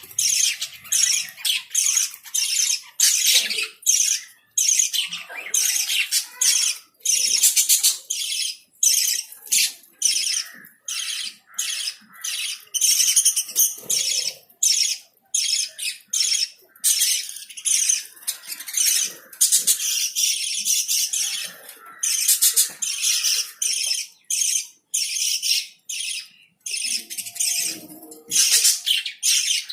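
A flock of pet lovebirds chattering: rapid, high-pitched, shrill squawks and chirps from many birds at once, several calls a second with only brief pauses.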